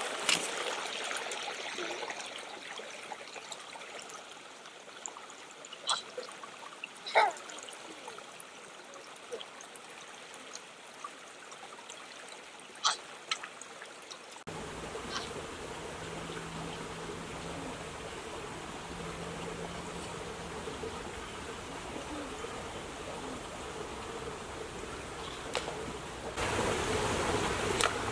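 Creek water trickling steadily over rocks, with a few sharp clicks in the first half. Past the middle the water sound changes suddenly and a faint low hum runs for a few seconds, and near the end the water grows louder.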